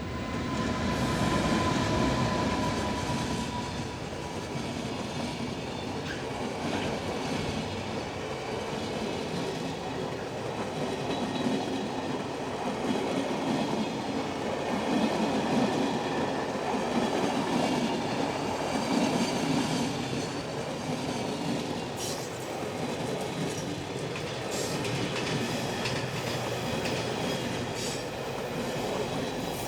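Freight train passing close by, its locomotive and a long string of wagons running past on the rails. The sound swells over the first two seconds and then holds steady as the wagons roll by, with a thin high tone in the first few seconds that fades away.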